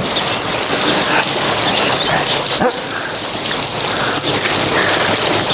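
Steady heavy rain pouring down, with a few faint short animal-like sounds mixed in.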